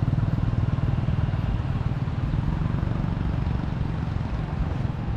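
An engine running steadily with a rapid low pulsing, easing slightly near the end.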